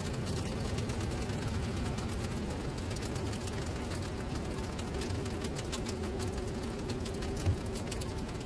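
Rain falling into standing water on a paved surface: a steady patter with many small drop ticks. A single brief low thump about seven and a half seconds in.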